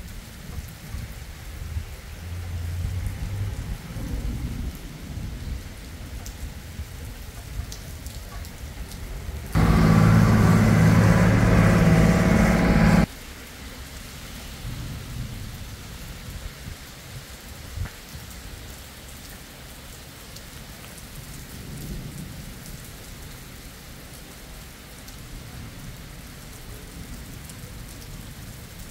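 Steady heavy rain falling on a paved road and vegetation, with low rumbles of thunder. About a third of the way in, a much louder droning noise with a steady hum cuts in for about three seconds and stops abruptly.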